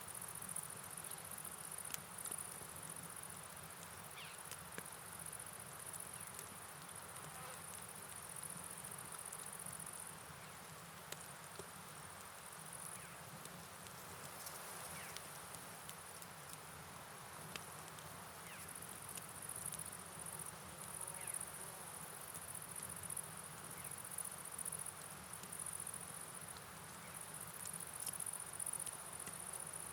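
Night ambience: a steady high chirring of insects that thins out for several seconds in the middle and then swells again, over scattered light ticks of rain patter and an even soft wash of rain and flowing water.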